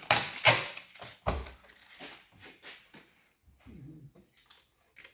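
A washing machine being opened and handled: a quick run of clicks, knocks and rustles, loudest in the first second and a half, then fainter scattered knocks.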